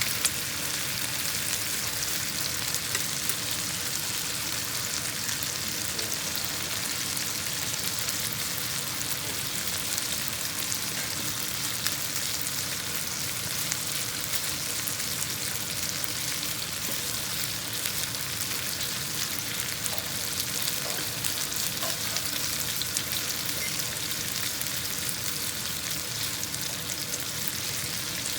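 Thin-sliced chicken frying in olive oil in a pan: a steady sizzle with small crackles.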